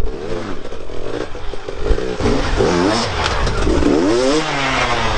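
Motocross bike engines revving, the pitch rising and falling several times, loudest about four seconds in.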